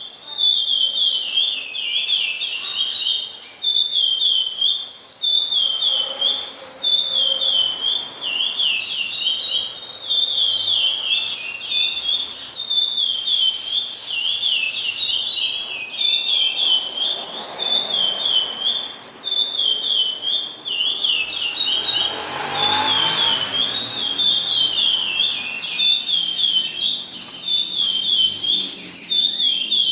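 A songbird singing the same short, quick, high whistled phrase over and over, about once a second.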